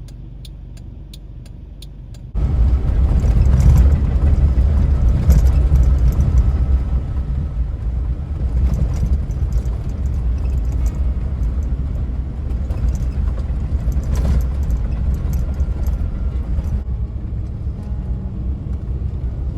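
Suzuki Jimny JA11 on the move. It starts quieter with a light regular ticking. About two seconds in, the sound jumps suddenly to a loud low rumble of engine and road noise, which goes on steadily.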